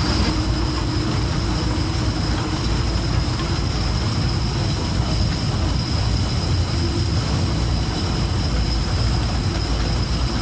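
Kurobe Gorge Railway trolley train running, heard from aboard: a steady rumble of the wheels on the track, with a thin high whine above it.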